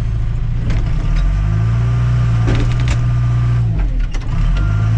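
Tractor-loader-backhoe's diesel engine working under load. Its drone swells, eases off briefly about four seconds in, then picks up again. A few knocks come in the middle, and a reversing alarm starts beeping near the end.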